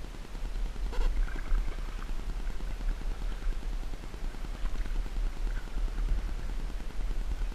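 Muffled low rumble from a kayak being paddled, heard through a GoPro's waterproof case, with a single knock about a second in and faint short chirps in the background.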